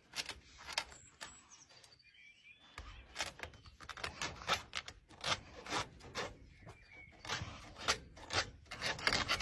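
Rough scratching strokes, irregular and several a second. They pause briefly about two seconds in, then come faster and louder toward the end.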